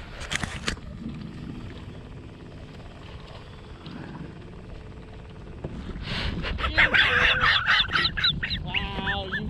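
A bird calling loudly and close by in a rapid run of short, harsh, honking notes, starting about six seconds in, over low wind and water noise. A brief knock comes right at the start.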